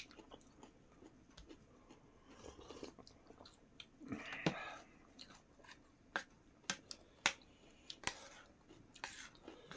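Close-up eating sounds: chewing and mouth noises, with scattered short sharp clicks and taps, and a denser burst of chewing noise about four seconds in.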